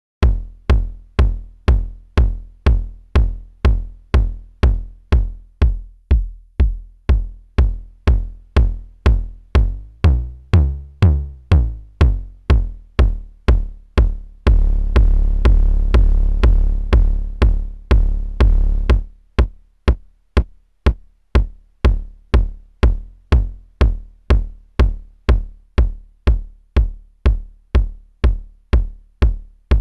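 Korg drumlogue drum machine playing a single synthesized kick drum about twice a second, its sound being shaped as it loops. About ten seconds in the tone of the kick shifts for a couple of seconds, and from about fourteen to nineteen seconds each hit rings out much longer before returning to short hits.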